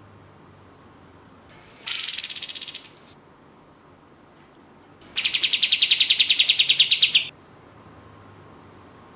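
Sooty-headed bulbul (kapas tembak) giving two rapid rattling trills of quick repeated high notes, about ten a second. The first lasts about a second, and the second, about three seconds in, runs for about two seconds.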